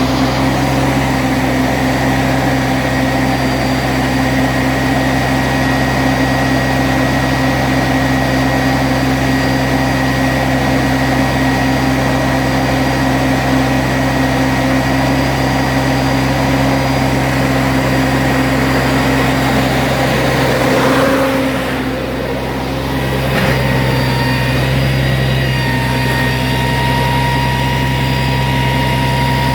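Heavy diesel engine of a log truck running steadily, its sound dipping briefly about two-thirds of the way through before steadying again.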